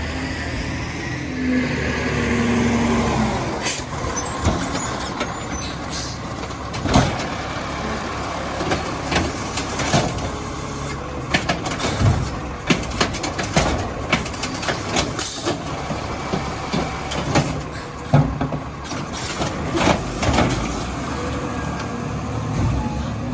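Crane Carrier garbage truck with an Amrep automated side loader running, with a string of sharp knocks and clatters through the middle part.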